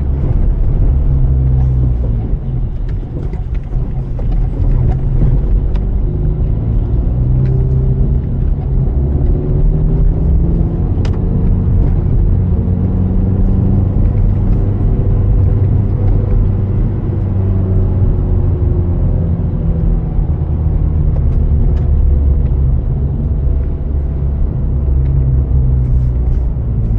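Car driving: a steady low drone of engine and road noise, the engine's pitch rising and falling gently as speed changes.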